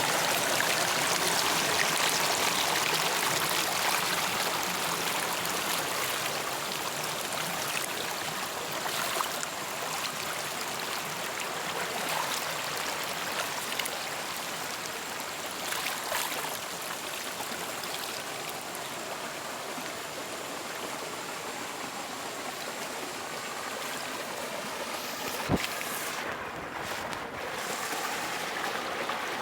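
Stream water running and trickling with a steady rush that slowly eases. There is a single sharp click about 25 seconds in.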